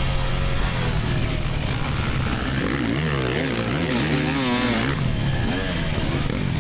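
2024 GasGas EX300 single-cylinder two-stroke dirt bike engine under way, its pitch rising and falling again and again from about halfway through as the throttle is blipped and rolled on and off.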